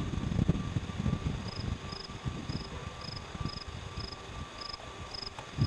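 Cricket chirping: short, evenly spaced chirps about two a second, starting about a second and a half in, over an uneven low rumble.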